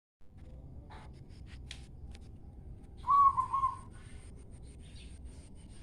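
A bird's short whistled call, a few quick warbling notes about three seconds in, over a low background rumble. Faint clicks come before it, and a faint high, evenly repeated ticking follows.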